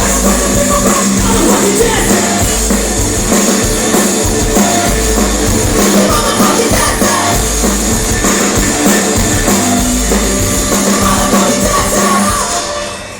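Punk rock band playing live through a loud festival PA, with drums and singing; the song ends abruptly near the end.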